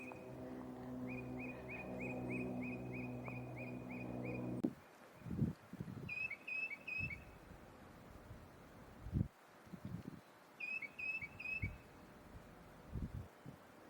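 Tufted titmouse singing: first a quick run of about ten clear whistled notes, then two short phrases of three slurred 'peter' notes a few seconds apart. For the first third a low steady drone of held tones runs underneath and cuts off abruptly, and low thumps come and go after it.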